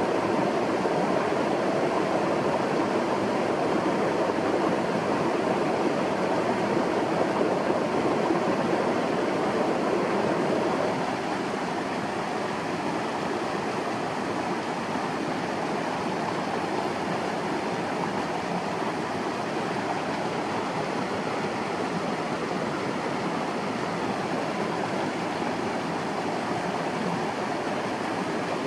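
Steady rushing water noise, a little quieter from about 11 seconds in.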